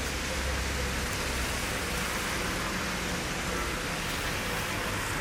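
Rain falling steadily: an even hiss with a low rumble underneath.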